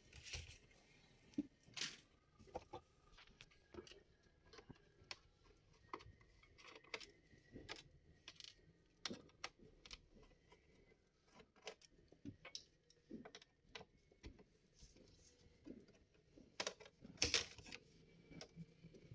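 Faint, scattered clicks and light taps of small hard parts being handled while a Dell laptop is taken apart, with a louder cluster of clicks near the end.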